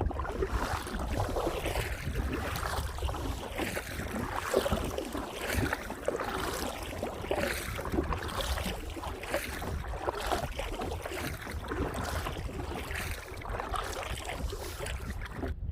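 Water splashing and lapping around a kayak as it is paddled, in repeated splashes about one to two a second, with low wind rumble on the microphone. The sound cuts off suddenly at the end.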